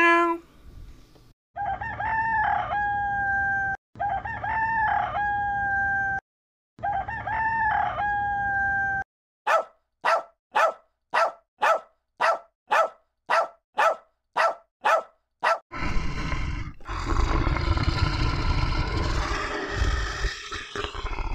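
A sequence of animal calls: three identical long crowing calls, each about two seconds with a steady held note; then a dog barking steadily about twice a second for some six seconds; then a lion's low, rough growling roar for the last five seconds.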